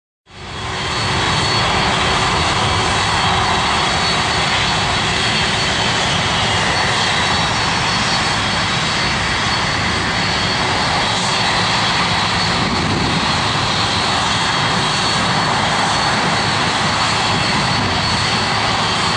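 Jet engines of a Boeing 757-200 airliner running at a steady level, a constant rushing noise with a high whine on top. The sound comes up quickly in the first half second and then holds even.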